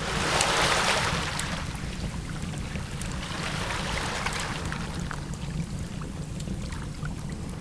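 Ocean surf washing, with wind on the microphone, over a steady low rumble. A louder wash of noise swells about half a second in, and short crackles are scattered through it.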